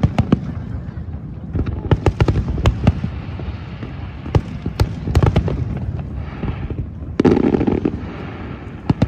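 Aerial fireworks going off: many sharp bangs in irregular succession over a steady low rumble, with a denser, louder crackling burst about seven seconds in.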